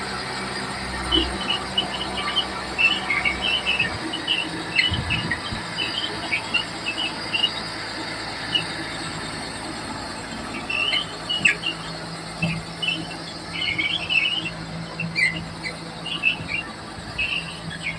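Komatsu D31P bulldozer running, its low steady engine note shifting about four seconds in, with many short high-pitched squeaks coming in irregular clusters over it.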